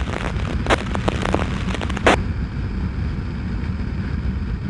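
Motorcycle riding: steady low engine and wind rumble, with a short burst of radio static about two seconds in.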